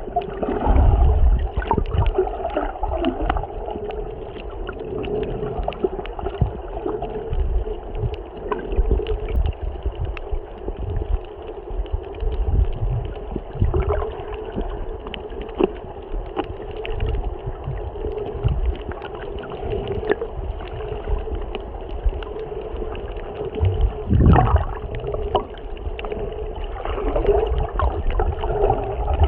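Water heard through a submerged camera: muffled gurgling and sloshing with irregular low rumbles, and a steady hum underneath.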